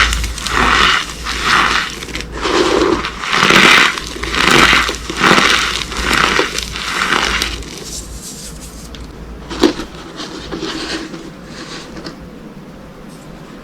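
Dry soap boxes dusted with corn starch being crunched, one crunch about every 0.7 s for the first seven seconds or so. After that they give way to quieter crumbling, with a single sharp snap near the ten-second mark.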